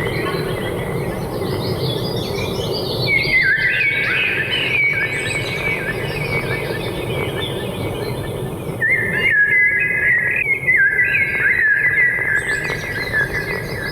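Birds singing in a forest: many quick chirps and gliding notes over a steady background hiss, busiest about three seconds in and again from about nine seconds.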